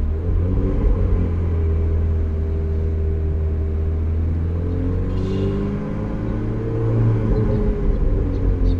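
Ferrari 458's V8 engine and exhaust running at low revs while the car drives slowly. The revs rise a little about six seconds in, then hold.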